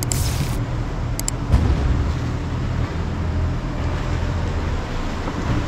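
Tour boat's engine running steadily with a low hum, under a wash of wind and water noise, and a single knock about one and a half seconds in.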